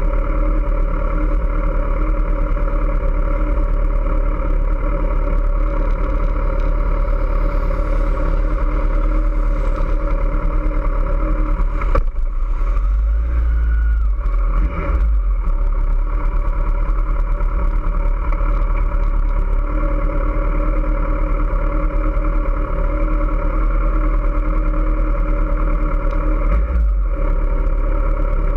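Kawasaki ZX-14R's 1441 cc inline-four engine idling steadily, heard from a camera mounted on the bike, with a brief knock about twelve seconds in.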